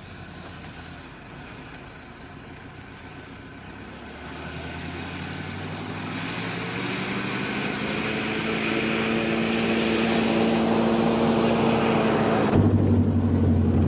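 Old car's engine running as it approaches, growing steadily louder with a slowly rising pitch. Near the end it changes suddenly to a steady low engine drone heard from inside the car's cabin.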